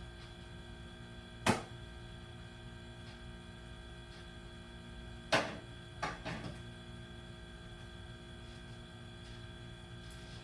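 Sharp knocks from tools or parts being handled during garage door installation work: one about a second and a half in, then three close together around five to six and a half seconds in, each ringing briefly. A steady electrical hum runs underneath.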